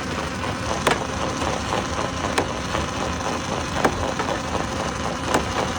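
Stone crusher machine running with a steady, loud mechanical din, and a sharp knock about every second and a half, four times.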